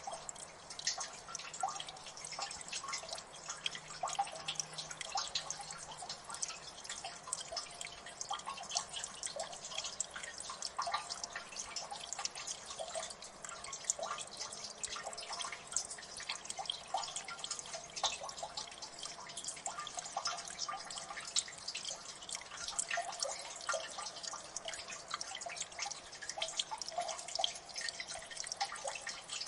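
Water dripping and trickling in a gully: many irregular drips and plinks overlapping without pause.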